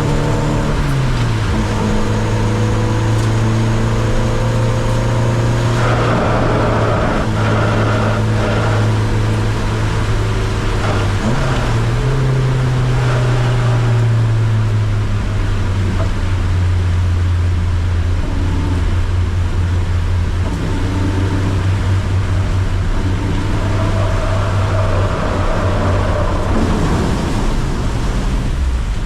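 Car engine running hard on a circuit lap, its pitch dropping about a second in, climbing again around the middle and falling back with the shifts and braking. A steady hiss of heavy rain and tyre spray on a wet track runs underneath.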